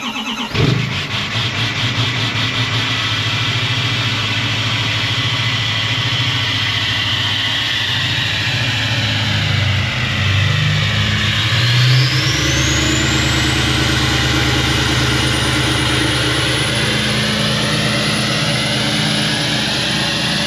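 L5P Duramax 6.6-litre V8 turbodiesel with an oversized turbo starting from cold: a brief crank, then it catches within the first second and settles into a steady idle. Around the middle a high turbo whistle climbs in pitch and then holds.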